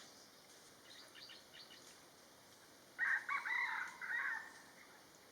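A cock crowing once, a broken call lasting about a second and a half, starting around three seconds in, with faint small-bird chirps a little before it.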